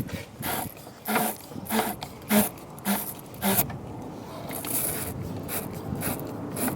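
Battery post cleaner scrubbing a car battery's lead post to remove corrosion: a series of about five short, regular scraping strokes, then quieter.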